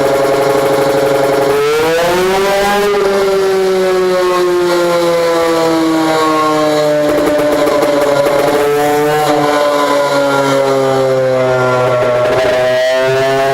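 Motorcycle engine running through an HPM competition-spec racing exhaust and being revved. It climbs sharply about two seconds in and sinks slowly, then rises again about nine seconds in, dips briefly near the end and picks back up.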